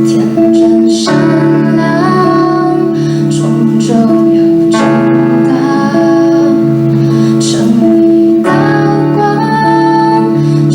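A live pop band of keyboard, guitars, bass and drums playing a slow ballad, with sustained chords changing every second or two and a woman singing over them.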